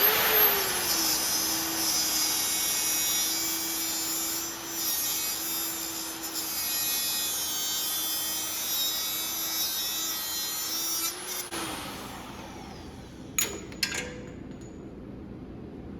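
Handheld power cutting tool slicing through a steel round rod: the motor starts, runs steadily under load with a harsh metal-cutting noise for about eleven seconds, then winds down with a falling whine. Two sharp clicks follow near the end.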